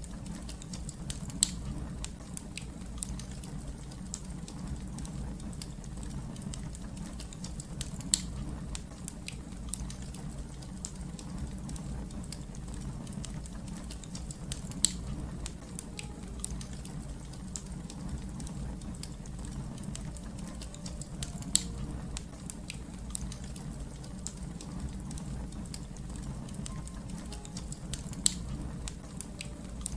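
Wood fire crackling: a steady low rumble with many small crackles, and a louder sharp pop about every seven seconds.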